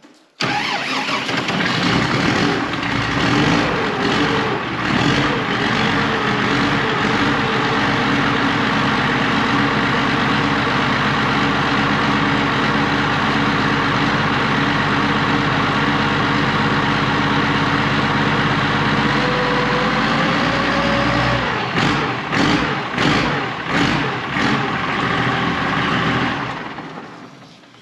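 Diesel tractor engine cold-starting readily on a frosty morning and running. Its speed wavers for the first few seconds, then settles into a steady run. The revs rise briefly about twenty seconds in, then the sound turns uneven with a few knocks and dies away near the end.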